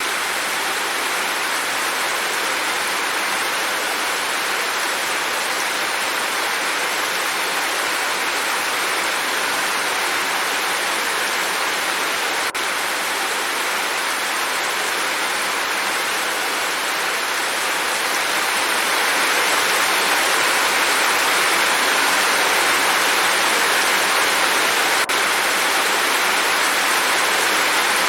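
Steady, dense rain hiss with no pattern, getting a little louder about two-thirds of the way through.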